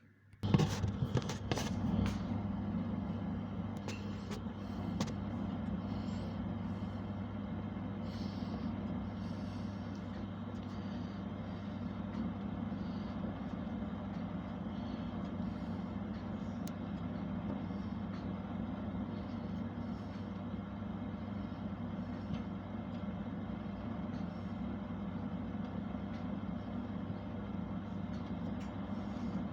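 Constructa oven switching on with a few clicks about half a second in, then running with a steady, even hum.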